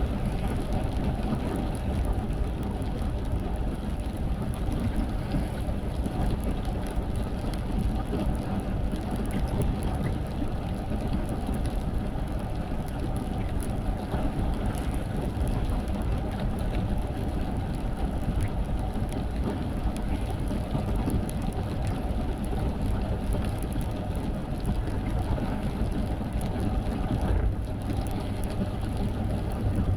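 Steady noise of a car driving in the rain, mostly low road and engine rumble that stays even throughout.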